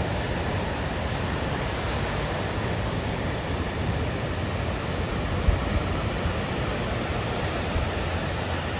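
Steady rush of ocean surf from typhoon swell, mixed with wind noise on the microphone, with a brief low bump about five and a half seconds in.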